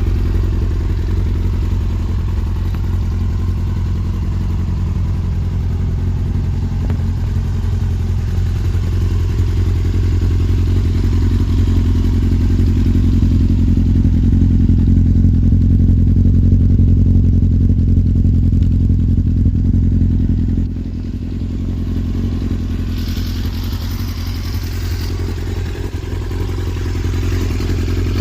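Yamaha YZF-R6's 600cc inline-four engine running steadily, turning a little quieter about three-quarters of the way through.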